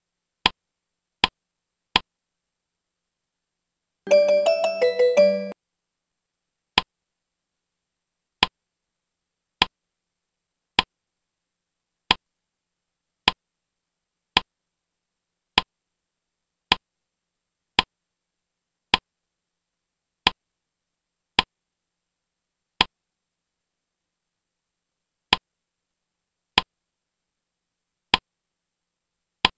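Slide-show animation sound effects: a short sharp click about once a second, each one as a new word block pops onto the screen, about twenty in all. About four seconds in, a brief electronic jingle of several quick notes plays, the slide-change sound.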